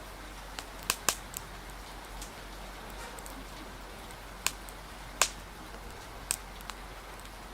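Wood fire crackling, with sharp pops at irregular intervals, the loudest about a second in and again past the five-second mark, over a steady hiss of rain.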